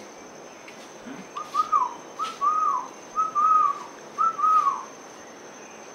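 A bird's clear whistled call: four short notes, each rising then falling, repeated evenly over about three seconds.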